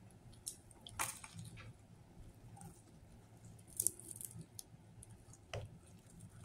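A person chewing a mouthful of sandwich close to the microphone, with a few short, sharp mouth clicks; the loudest come about a second in and just before four seconds.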